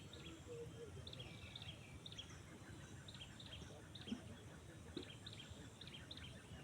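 Small birds chirping: many short, high chirps repeating over a low outdoor rumble, with a single faint knock about four seconds in.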